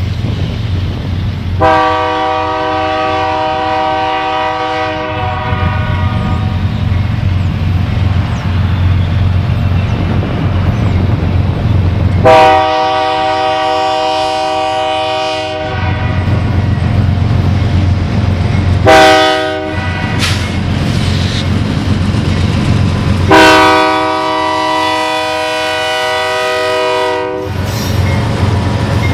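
A locomotive air horn sounds a several-note chord in the grade-crossing pattern of long, long, short, long. Under the horn a train rumbles steadily past.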